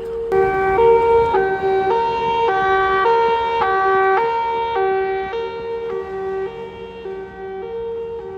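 Emergency siren sounding a hi-lo pattern, stepping back and forth between two steady pitches about every half second. A sharp click comes about a third of a second in, and the siren grows quieter in the second half.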